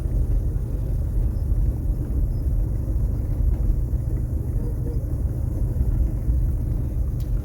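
A 1981 Cadillac Seville heard from inside its cabin while driving: a low, steady rumble of engine and road noise.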